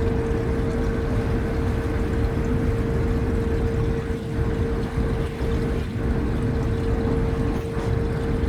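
Sydney ferry's engines running steadily at the wharf, a deep rumble with a constant mid-pitched hum over it.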